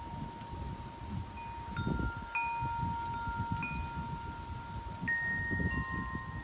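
Wind chimes stirred by the wind, each tube struck now and then and left ringing with long, lingering tones, about five strikes in all from the second second on. Gusts of wind rumble on the microphone underneath.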